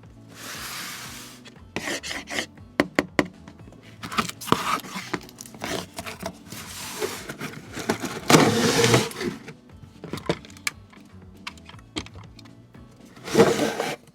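A diecast model truck handled by hand: a run of sharp clicks and short scraping and rubbing noises as its small metal and plastic parts are moved, with a louder scrape about eight seconds in and another near the end.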